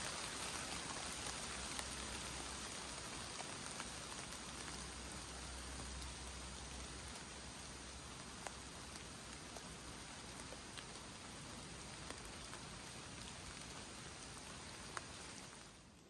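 Steady rain falling on woodland trees and leaf litter, an even hiss with the odd louder drop striking close by, easing slightly as it goes on.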